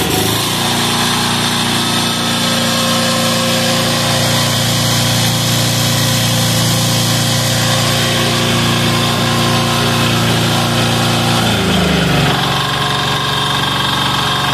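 Single-cylinder air-cooled 186FA diesel engine running on waste oil, its speed picking up about half a second in, holding steady, then sagging to a lower speed near the end as it works air bubbles through the fuel line.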